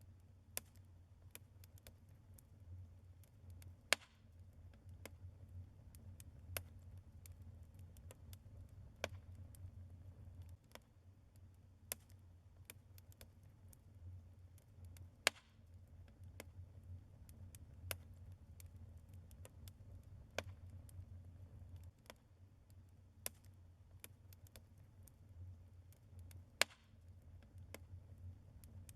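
Wood fire of burning logs in a fireplace, crackling with irregular small pops and a few louder snaps, over a low steady rumble.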